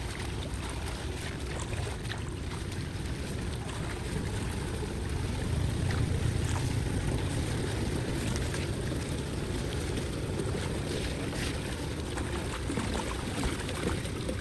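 Floodwater draining into a cleared storm drain: a steady rushing of water with a low rumble.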